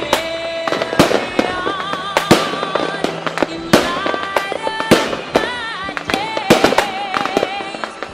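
Fireworks going off: repeated sharp bangs and crackles, several each second.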